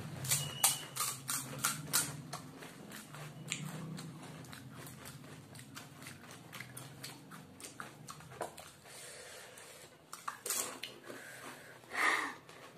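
Close, mouthy crunching and chewing of fuchka (pani puri) shells, which are the thick, hard ready-made kind. The sharp crackles come thick at first and thin out as the mouthfuls are chewed down.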